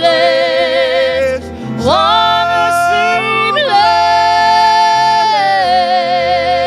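A solo voice singing a gospel song, holding long notes with vibrato over instrumental accompaniment.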